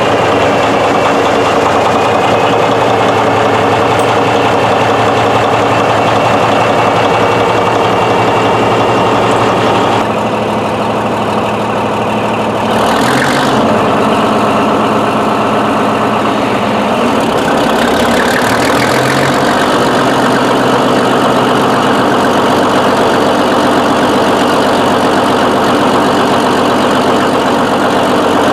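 Murphy diesel engine of a Northwest 80D crane running steadily. Its note shifts about ten seconds in and again a few seconds later, with a short noisy burst in between.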